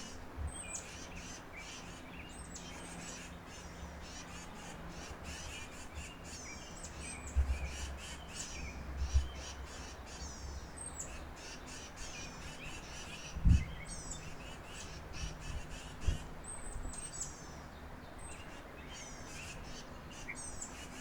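Wild birds at a backyard feeder calling and chirping over and over in quick, high-pitched notes. Several short, dull low thumps break in, the loudest about two-thirds of the way through.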